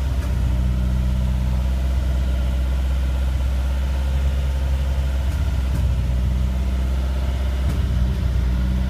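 Freshly built full-race 2.0-litre 8-valve engine in a Lancia Stratos running steadily at idle through a silenced exhaust built for a track-day noise test, during its first runs after assembly.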